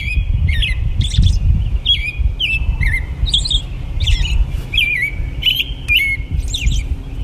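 Birds chirping: short, sharp calls about twice a second, over a steady low rumble.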